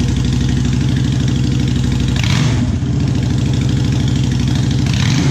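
2013 Honda Shadow Phantom's V-twin idling through its louder aftermarket exhaust, with two brief revs, about two seconds in and near the end.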